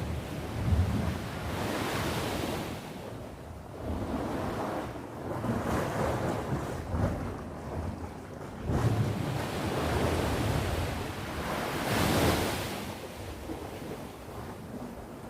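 Sea waves breaking and washing up the shore, a rushing surf that swells and falls back every few seconds, with the loudest wave about twelve seconds in.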